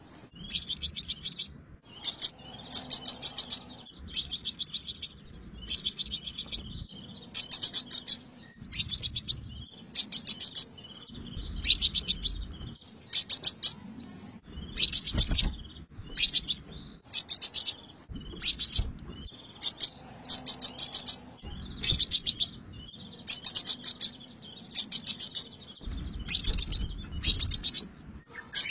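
Sunbird song: rapid, high chirping trills in short bursts, repeated with only brief pauses.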